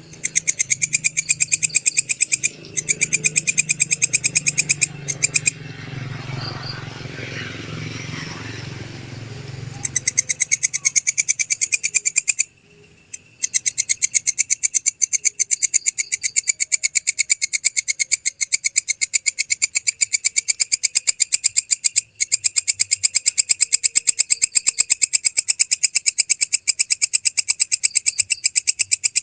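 Belalang kecek (walang kecek) katydid calling: loud trains of rapid, even ticking pulses, broken off twice before running on without a break for the second half. A low rumble lies under the first third.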